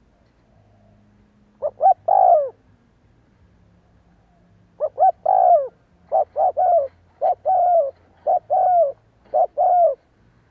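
Spotted dove cooing. One phrase of short notes ending in a longer falling coo comes about two seconds in. After a pause, a longer run of such coos follows one after another, ending shortly before the end.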